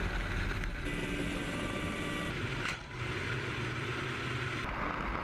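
Steady engine noise, changing abruptly in character three times as the footage cuts between clips.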